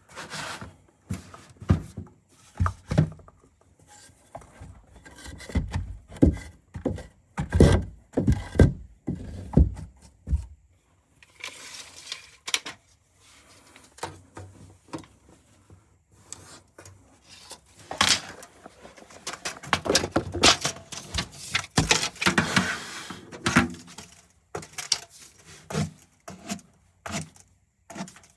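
Irregular knocks, clunks and rustling from objects being handled, set down and moved, with heavier thuds in the first half and brighter scraping and rustling later on.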